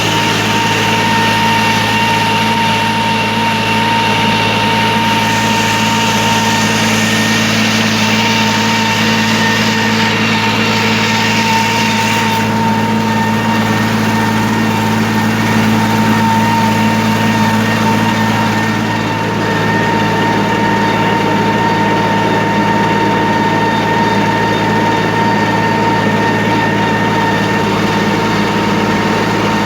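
47 RX tractor's diesel engine running steadily under load while pulling a 15-tine cultivator through the field at high speed, with a steady whine over the engine note. The tone shifts slightly about twelve seconds in and again about nineteen seconds in.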